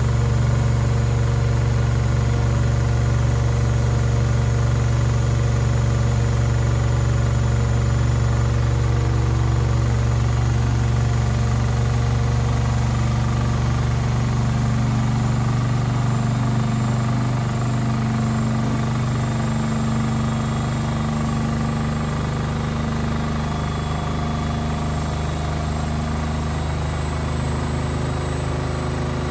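Beko WMB 71643 PTE washing machine spinning, its brushed drum motor running with a steady low hum. The pitch shifts a little around the middle and it gets slightly quieter after that.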